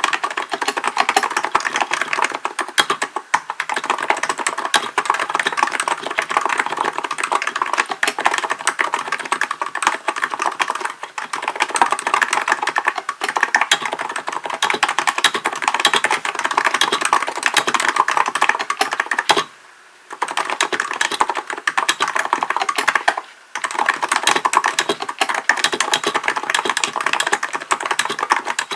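Steady, fast typing on a Hansung GK898B electro-capacitive keyboard, the keystrokes running together in a dense clatter, with two brief pauses in the last third.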